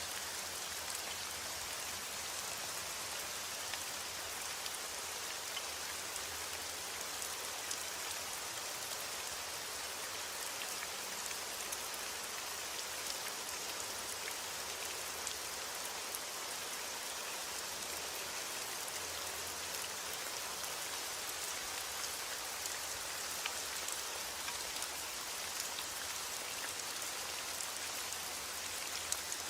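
Steady heavy rain falling, with many small drop ticks.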